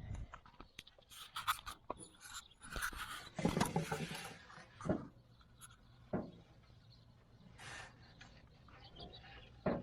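Handling noise from a camera being taken off its mount and moved about by hand: scattered clicks, rubbing and scraping, with the loudest knocks and rustles between about three and five seconds in.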